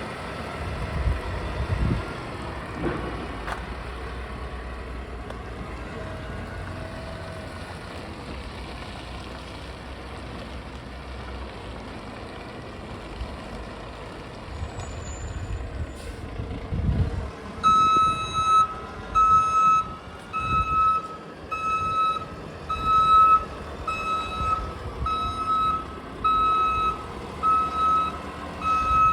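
Mack refuse truck's diesel engine running. From about halfway in, its reversing alarm sounds: a steady single-pitch beep, about one a second, as the truck backs up.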